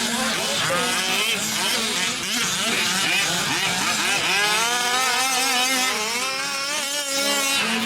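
Several 1/5-scale RC racing trucks' small two-stroke gas engines running together, each revving up and down as they accelerate and brake around the track.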